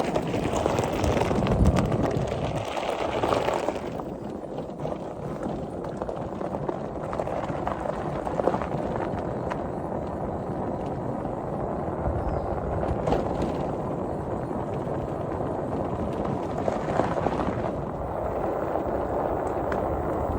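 Riding noise on an electric motorcycle: a steady rush of wind and road noise, with louder swells about two seconds in and again near the end.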